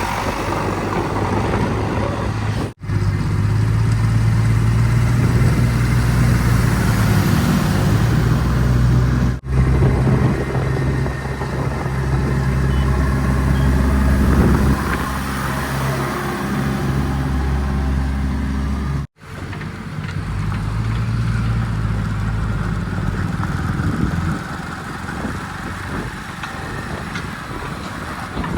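Heavy diesel engines of working machinery, a backhoe loader and tractors, running steadily with the engine note shifting as the throttle changes. The sound cuts out abruptly three times, about 3, 9 and 19 seconds in.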